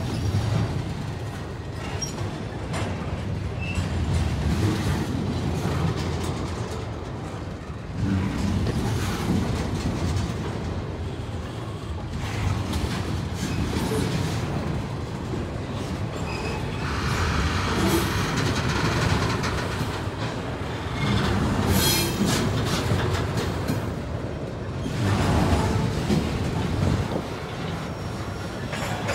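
Double-stack intermodal train's well cars rolling past on the rails: a continuous rumble and rattle of steel wheels on track that swells and eases several times as the cars go by.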